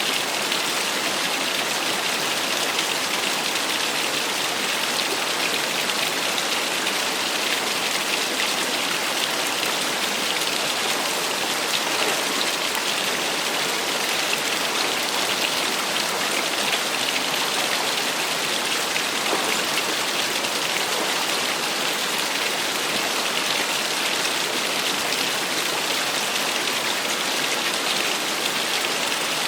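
Small waterfall splashing steadily, an even hiss of falling water without a break.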